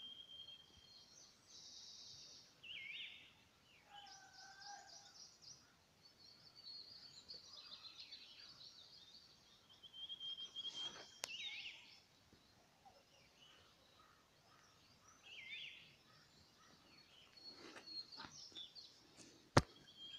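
Several wild birds calling and singing: scattered high chirps, whistles and curled notes, with a few lower two-note calls about four seconds in. A single sharp click sounds near the end.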